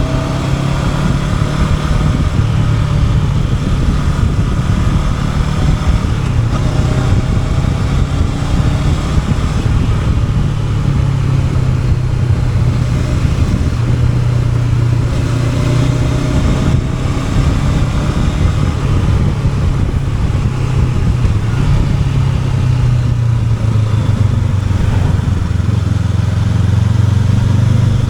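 Honda NX500 parallel-twin motorcycle engine running under way at a fairly steady cruise, its note dipping slightly and rising again near the end, with a steady rush of wind noise over it.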